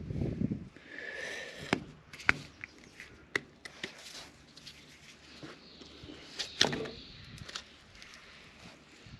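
Hoof knife paring hard cow hoof horn while a cavity is opened up: scattered sharp clicks and scrapes of the blade, with a dull low thump at the start.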